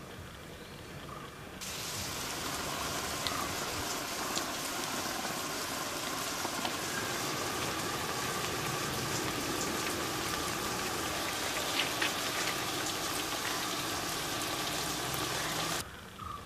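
Steady rain falling, an even hiss with scattered drop ticks that starts abruptly a second and a half in and cuts off sharply near the end.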